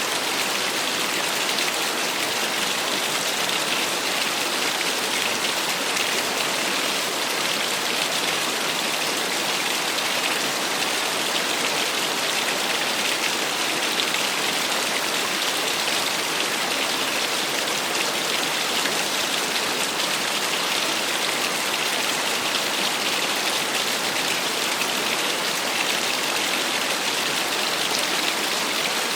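Small waterfall: water falling and splashing in a steady, even rush that never lets up.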